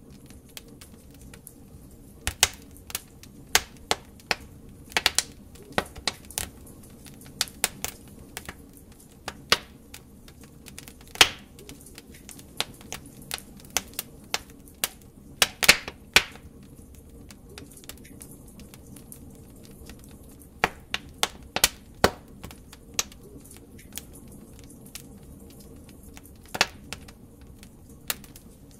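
Wood fire in a fireplace crackling: irregular sharp pops and snaps from the burning logs over a low, steady rumble of flame. The pops come in clusters, with a couple of quieter stretches in between.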